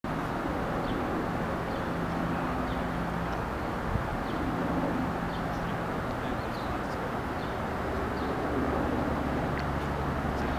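Steady outdoor rumble from a distant approaching train, growing in the low end near the end, with small birds chirping now and then. A single knock comes about four seconds in.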